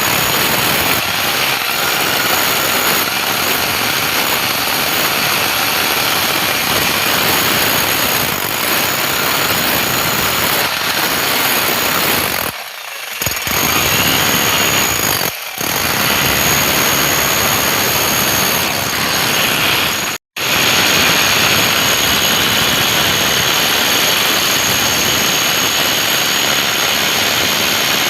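A loud machine running steadily, with short dips about 13 and 15 seconds in and a momentary cut-out about 20 seconds in.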